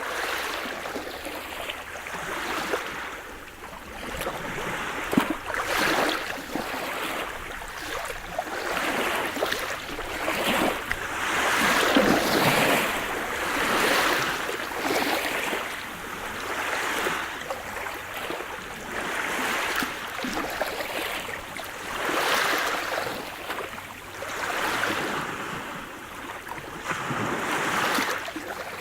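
Sea surf: small waves breaking and washing in, swelling and fading every couple of seconds with a few sharper splashes.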